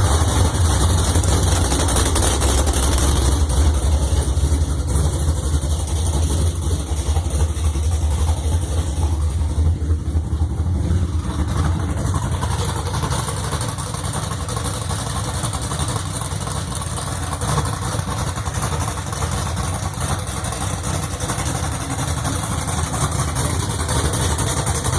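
GM LS2 6.0-litre V8 running at a steady idle on its first start-up, with a deep, even exhaust note that eases slightly in the middle and picks up again near the end.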